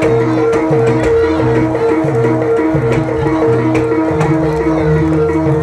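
Live kuda kepang accompaniment music: hand drums played over a repeating cycle of pitched, ringing notes.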